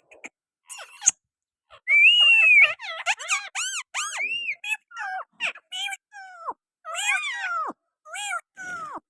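Pet parrots calling: a loud held whistle about two seconds in, then a string of short chirping calls that rise and fall in pitch.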